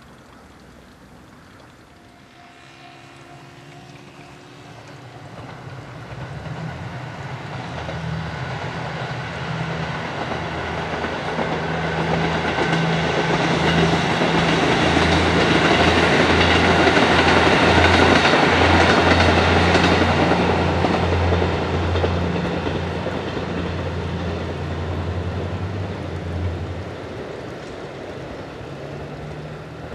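Diesel multiple-unit train passing on the Kisei Main Line: the engine drone and the running noise of the cars build from about four seconds in, are loudest around the middle, then fade away near the end.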